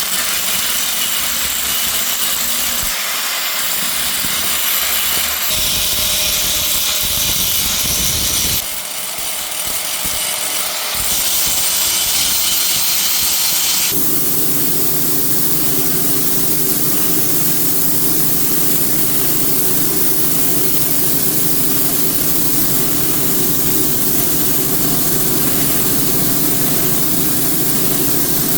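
Workshop power-tool noise with strong hiss, changing abruptly several times as if cut together. About halfway in it settles into a steady machine hum under the hiss.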